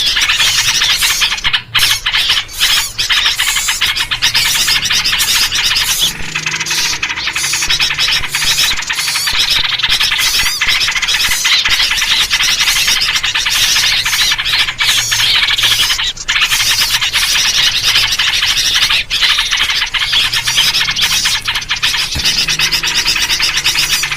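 Noisy, continuous chattering and chirping of many small birds, a flock recording with yellow-vented bulbul (trucuk) calls, of the kind played as a lure to draw in wild birds.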